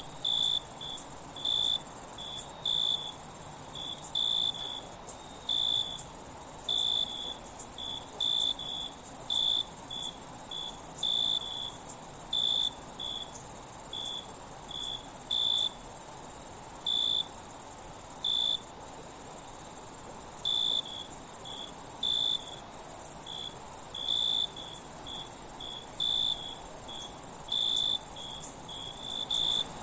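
Night insect chorus: a steady high-pitched trill with a cricket chirping over it, about one or two chirps a second at an uneven pace. A few brief dropouts cut the sound for an instant.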